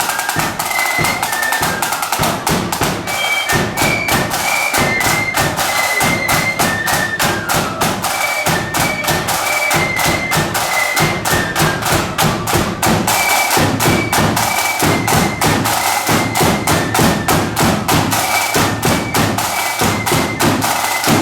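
A marching flute band plays a tune. High flutes carry the melody over rapid snare drum rolls and bass drum beats.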